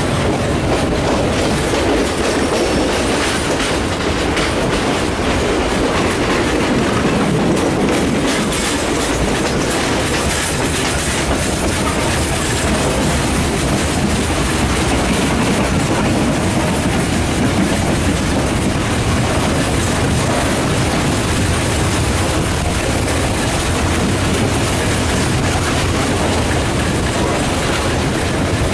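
Passenger train running steadily along the track, its wheel-on-rail noise heard through an open carriage window.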